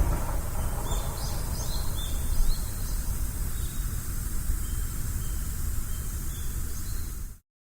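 Outdoor ambience of small birds giving short high chirps over a steady low rumble. It all cuts off abruptly near the end.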